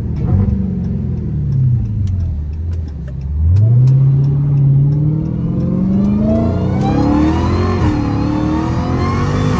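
Dodge Charger Hellcat Redeye's supercharged 6.2-litre V8, its revs falling at first, then about three and a half seconds in it is floored and pulls hard, engine note climbing steadily. A supercharger whine rises with it through an aftermarket cold air intake.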